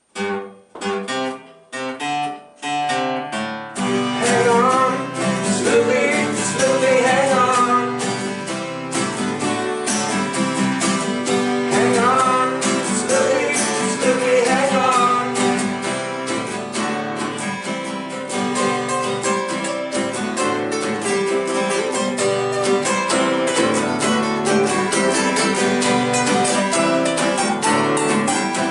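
Acoustic guitars playing a song: one guitar leads in with a few separate struck chords or notes for about three seconds, then the others come in with steady full strumming.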